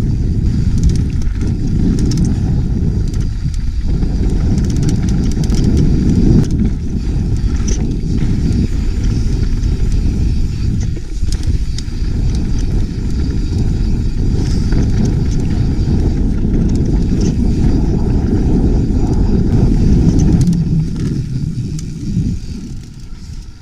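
Off-road vehicle working down a rocky trail: a steady low rumble with scattered clicks and crunches from the tyres and chassis on rock. It grows quieter near the end.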